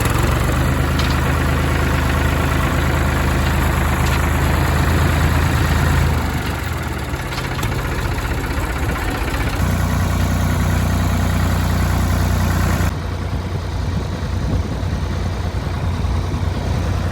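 Vehicle engine running steadily. It eases off about six seconds in and picks up again around ten seconds.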